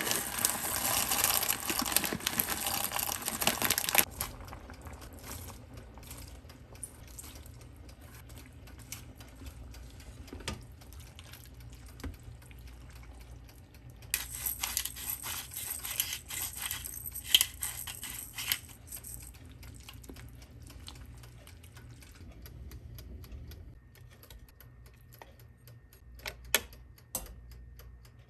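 Kitchen work sounds: scattered clicks and clinks of utensils and dishes, with two stretches of running water, one at the start and one about fourteen seconds in.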